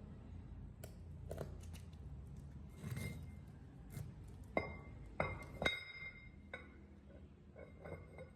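A run of sharp metallic clinks and taps, metal parts or tools striking steel. The loudest three come a little past halfway and ring briefly, over a low steady hum that fades near the end.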